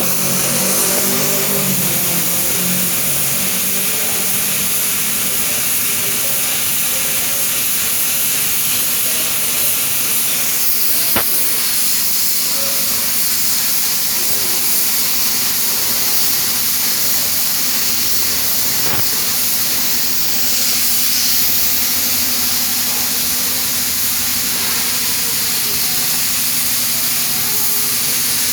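Air-fed paint spray gun spraying a car bumper, a steady hiss of compressed air and atomised paint, with a steady low hum under it.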